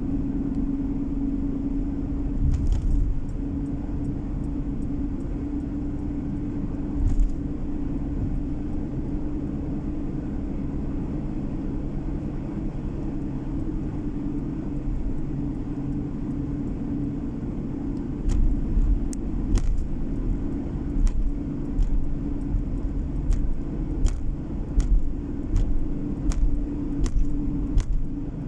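Car driving along a road, heard from inside the cabin: a steady rumble of road and engine noise with a constant hum. A couple of single knocks early, then from about two-thirds of the way in a run of irregular sharp knocks and bumps every half second or so.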